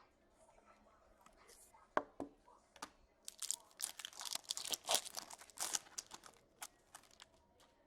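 A trading card pack's wrapper torn open and crinkled by hand, with a few sharp clicks first and then a few seconds of crackling rustle.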